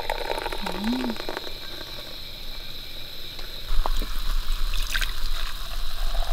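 A fizzy canned grape sour cocktail being poured, with liquid gushing and crackling fizz for the first second or so. A low rumble joins about halfway through.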